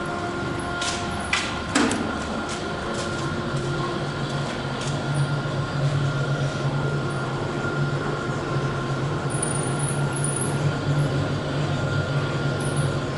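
Workshop machinery: a few sharp metal clicks and knocks in the first two seconds, then a steady low machine hum that sets in about three seconds in and keeps on.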